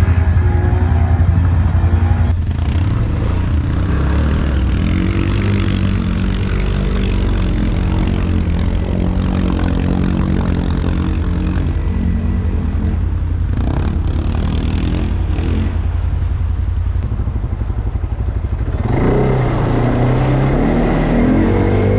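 ATV engines running and revving, their pitch rising and falling as the machines ride. The sound changes abruptly about two seconds in and again near the end.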